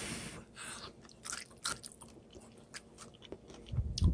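Someone biting and chewing a mouthful of fresh, crunchy cauliflower: a run of irregular sharp crunches. A low bump comes near the end.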